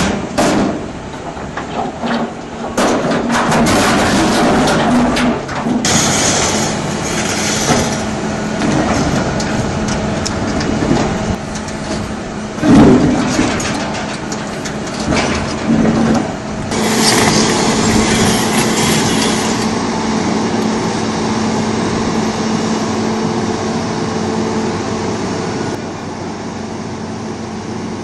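Heavy construction machine's diesel engine running steadily, with a series of clanks and knocks in the first few seconds and another loud knock about halfway through, and two stretches of hissing.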